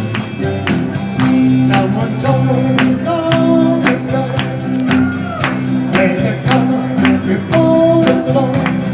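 Rock band music: guitar and bass over a steady drum beat with about two drum hits a second, plus sustained melodic notes.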